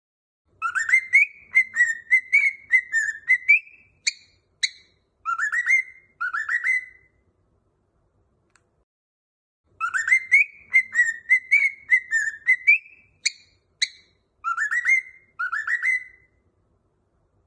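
Cockatiel whistling a short warbling song phrase of quick notes and upward slurs. The same phrase comes twice, with a pause of about three seconds between.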